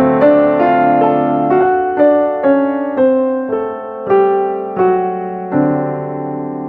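Background music: a solo piano melody of separate struck notes, each fading before the next, about one to two a second.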